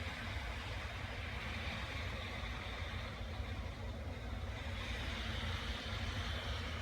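EF63 electric locomotive running, a steady low rumble with a hiss over it.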